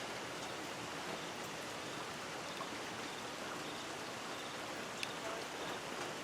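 Steady heavy monsoon rain falling, a dense even hiss with a few separate drops, one sharper drip about five seconds in.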